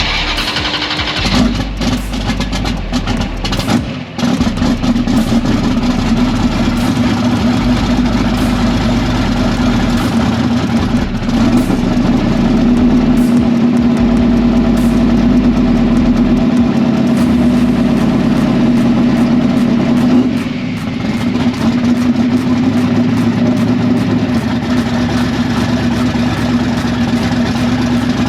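Vehicle engine running steadily with a strong, even drone, dipping briefly about twenty seconds in.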